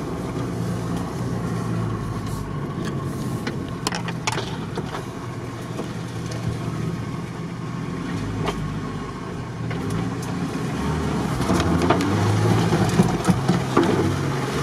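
Off-road vehicle engine running at low revs while crawling along a rough forest track, heard from inside the cab, with scattered knocks and rattles. It gets louder near the end.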